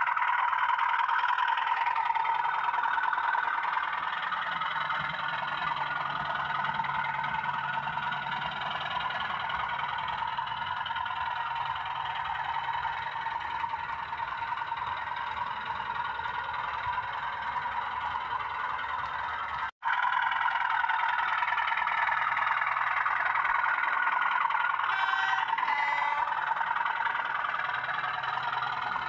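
00 gauge Bachmann Class 37 model diesel locomotive running, a steady diesel-engine drone with a whine over it that eases off partway through and builds again, broken by a brief cut about two-thirds in.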